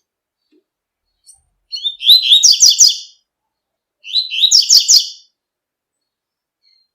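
Double-collared seedeater (coleiro, tui-tui song type) singing two short phrases of fast repeated high notes, about a second apart.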